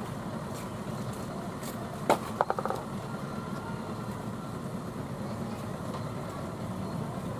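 Vehicle engines running steadily in road traffic. A sharp knock comes about two seconds in, followed by a quick rattle of a few clicks.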